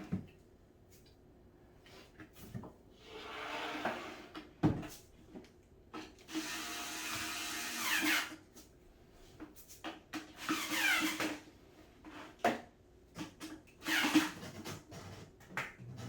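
A power screwdriver or drill runs in four short spells with its pitch sliding up and down, the longest about two seconds near the middle, probably driving screws into cat tower panels. Wooden knocks and clicks of the parts being handled come between the runs.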